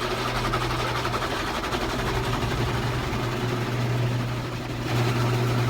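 Automatic car wash machinery running, heard from inside the car's cabin: a steady low hum with a hiss above it, growing louder about five seconds in.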